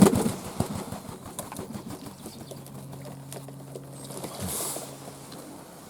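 Fantail pigeons moving about their pen: scattered small clicks and scratches from their feet and beaks, with a brief rustle of feathers about four and a half seconds in. A steady low hum comes in about halfway through.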